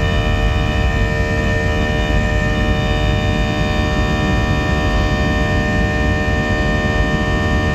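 Boeing 737-700's CFM56-7B turbofan engines running at high thrust, heard inside the cabin during takeoff and climb: a steady low rumble with a set of steady whining fan tones over it.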